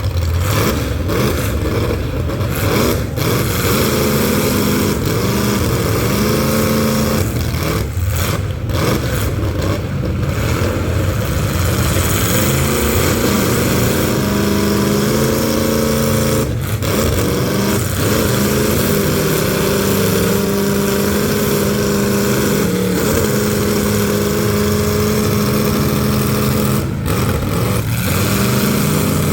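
Engines of full-size demolition derby cars revving hard, their pitch climbing, dropping and holding high as the cars accelerate, over a constant loud rumble.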